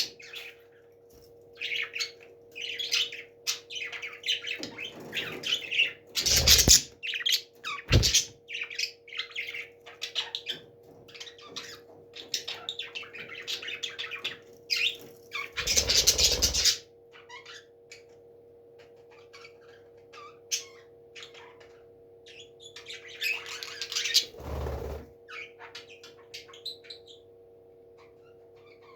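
Parrots chirping in quick runs, broken by a few loud, harsh squawks, over a steady low hum. The calls thin to occasional faint chirps for several seconds past the middle, then pick up again.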